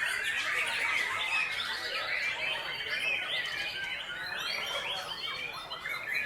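Caged white-rumped shamas singing at once in a songbird contest: a dense, continuous chorus of overlapping whistles, chirps and trills.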